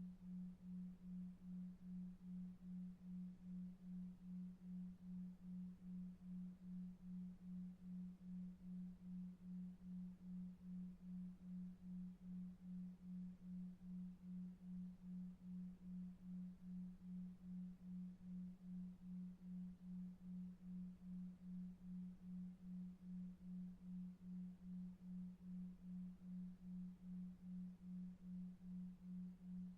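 A low pure tone that pulses evenly about two to three times a second, a delta-wave pulsed tone for sleep, over faint brown noise.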